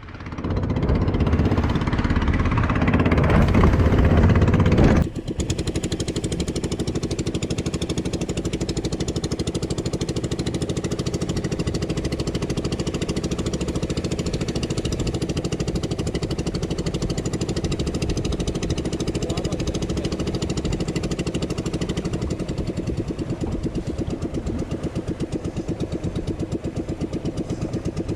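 Fishing boat's engine running steadily with a fast, even chug. For about the first five seconds it is louder, with a rushing noise over the engine, then that cuts off abruptly and only the steady engine remains.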